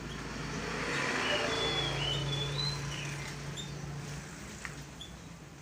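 Short high bird chirps, with a few whistled glides about two to three seconds in, over a low hum that swells and fades.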